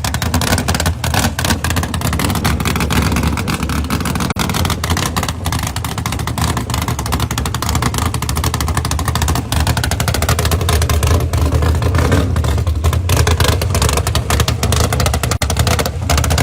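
Loud car engine and exhaust running steadily, with slow small changes in engine speed.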